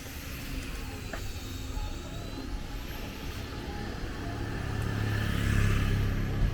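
A motor vehicle's engine passing on a street, with a low rumble that grows louder about five seconds in, over street background noise.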